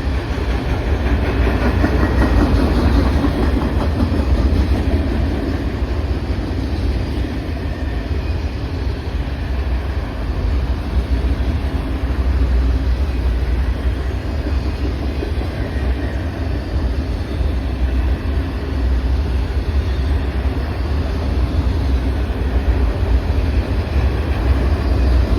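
CN freight train running past with a steady, unbroken rumble.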